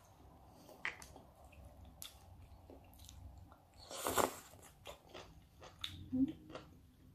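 Chewing and wet mouth sounds of someone eating salmon sashimi, with scattered small clicks and one louder mouth noise about four seconds in.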